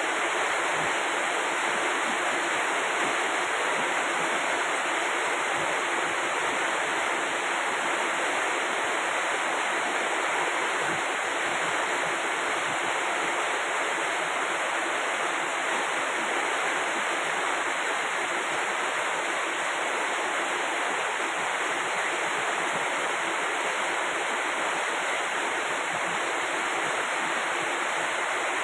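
Rain falling steadily, an even, unbroken rush of noise.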